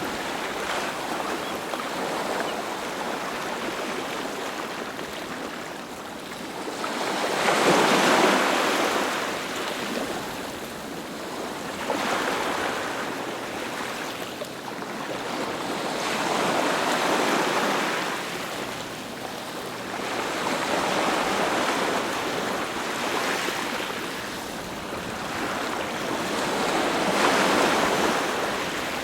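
Sea waves breaking on a beach, coming in as repeated surges of surf that swell and fade over a few seconds each; the biggest break comes about eight seconds in.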